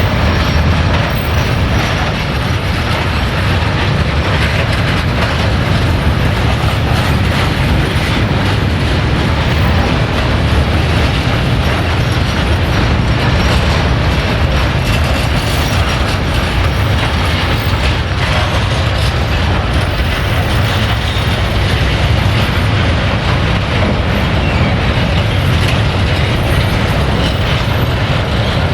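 Freight train's wagons rolling past, a steady loud rumble of wheels on the rails with some clattering over the track.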